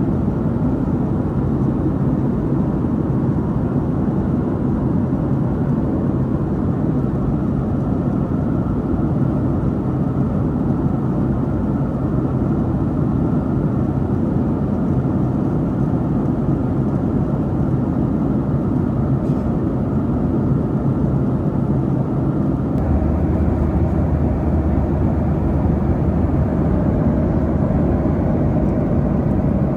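Steady jet engine and airflow drone heard inside the cabin of a Boeing 737-800 in flight, from its CFM56-7B engines. About 23 seconds in the drone shifts, with a deeper steady hum coming in.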